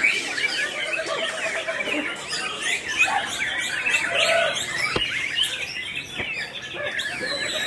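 Many caged white-rumped shamas singing at once, a dense chorus of overlapping whistles and chirps with no break. A single sharp click about five seconds in.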